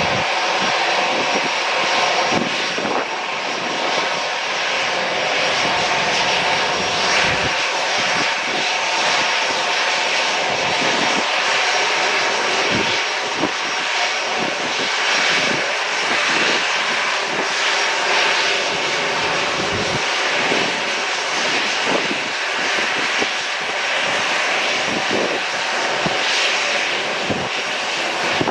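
Airplane engines running loud and steady: an even rushing noise with faint steady engine tones in it.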